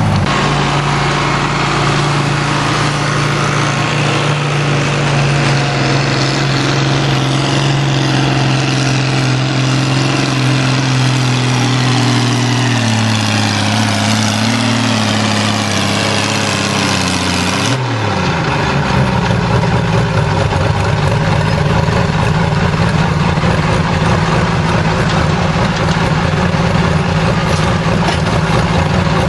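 Antique tractor engine running hard, its pitch falling over several seconds about halfway through as the engine slows. The sound then switches abruptly to another steady engine running.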